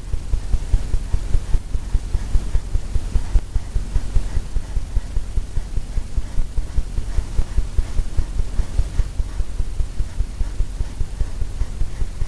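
Loaded brush dabbing and scrubbing paint onto a stretched canvas, a steady run of low, rapid thumps, several a second, carried through the easel.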